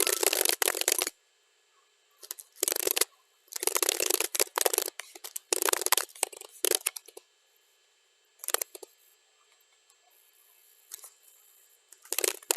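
Computer keyboard typing sped up to double speed: rapid runs of key clicks in bursts, with short pauses between and a longer pause of about three seconds near the end.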